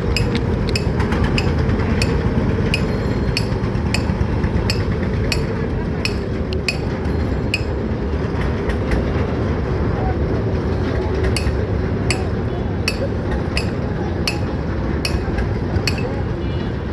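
Boat under way: a steady low running noise with a sharp click repeating about two to three times a second, and indistinct voices.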